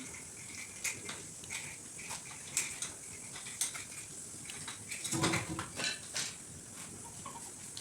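Scattered light clicks and clinks of small hard objects being handled, with a short, louder low sound about five seconds in.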